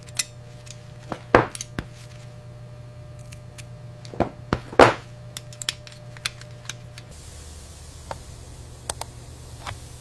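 Hard clicks and taps of small tools and parts being handled during restoration work, with two louder knocks about one and a half and five seconds in, over a low steady hum.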